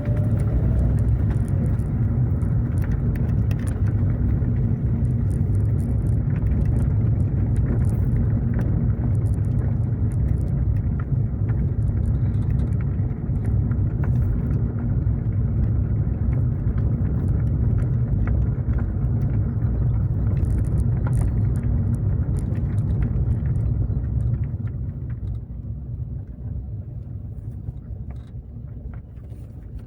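Car driving along, a steady low rumble of engine and road noise with a faint hum and scattered light clicks, fading away over the last few seconds.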